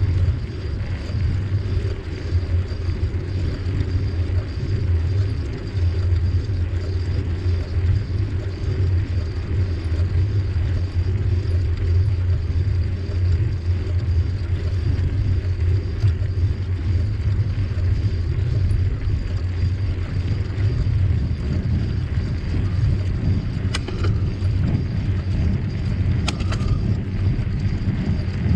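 Steady low rumble of a bicycle ride: wind buffeting the microphone and tyres rolling over the trail. Two faint clicks come near the end.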